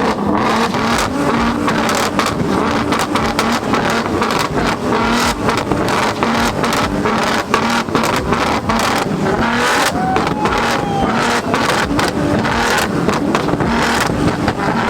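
Nissan GT-R R35's twin-turbo V6 held on a two-step launch limiter: a steady, chopped engine note with rapid, irregular exhaust pops throughout.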